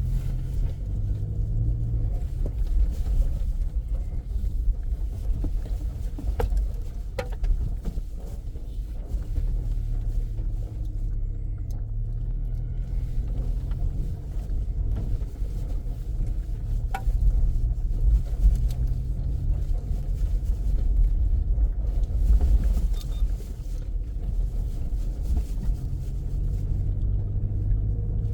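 Car driving, with a steady low engine and road rumble whose hum slowly rises and falls, and a few faint knocks.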